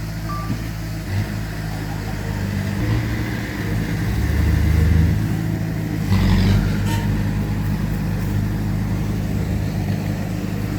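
Heavy diesel engines of earthmoving machinery running under load, the engine note shifting and swelling louder about four seconds in, then changing again about six seconds in.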